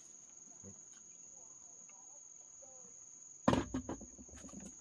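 Steady high-pitched chirring of forest insects, with a loud clatter about three and a half seconds in followed by a few smaller knocks.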